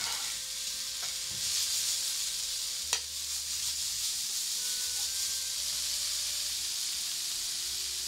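Sliced mushrooms and red pepper strips sizzling in a hot frying pan as they are stirred and tossed, the sizzle swelling louder for a couple of seconds. Two sharp clacks stand out, one at the start and one about three seconds in.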